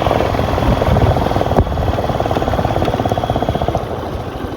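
Motorcycle engine running with a fast, even exhaust beat, gradually getting quieter.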